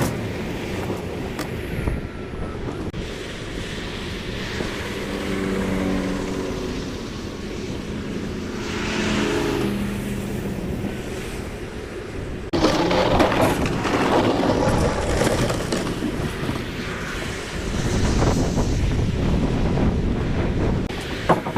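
Vehicle engine running with heavy low rumble and outdoor noise. The sound changes suddenly, louder, about halfway through.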